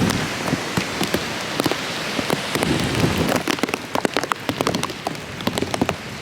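Heavy hurricane rain, a steady hiss broken by many sharp individual drops striking a hard surface close to the microphone.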